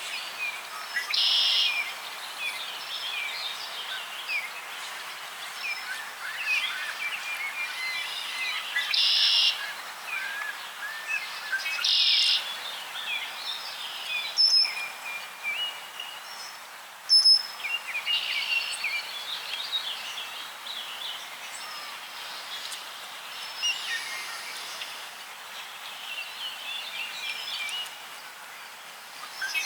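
Several songbirds chirping and singing over a steady outdoor hiss. One louder, short call comes again and again, near the start, twice in the middle and once at the very end. Two sharp clicks sound about halfway through.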